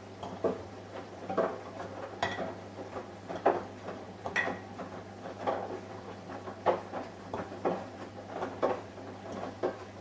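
Samsung Eco Bubble washing machine running a wash: the load tumbling in the drum gives irregular clunks and clinks about once a second over a steady low hum.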